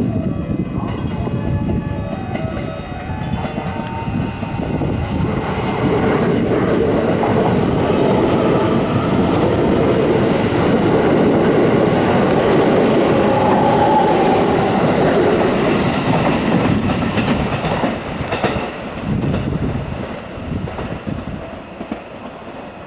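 A JR West 281-series 'Haruka' limited express electric train passing through the station at speed without stopping, its wheels clattering over the rail. It grows loudest through the middle and fades away over the last few seconds.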